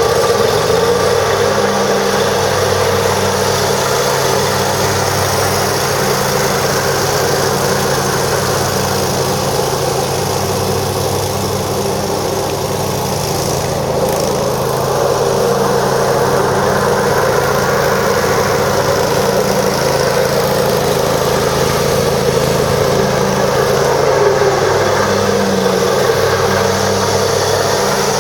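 Kohler Command Pro engine of a 2007 Exmark Lazer Z zero-turn mower running steadily, its engine speed rising just at the start.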